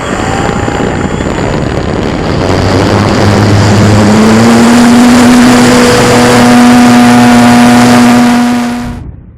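Electric motor and propeller of an E-flite Apprentice RC trainer plane running, rising in pitch and then holding steady at a high whine, under heavy wind noise on the microphone. The sound cuts off abruptly near the end.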